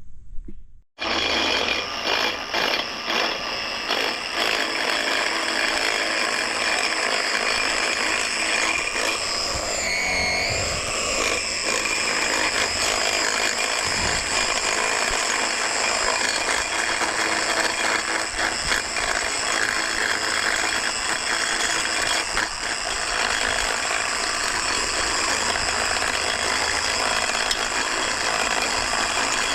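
A machine running steadily with a fast, dense rattle and a high whine, starting abruptly about a second in.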